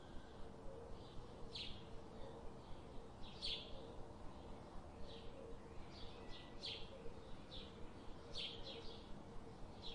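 Short, high bird chirps, about one every second or two and some in quick pairs, over a faint, evenly pulsing hum.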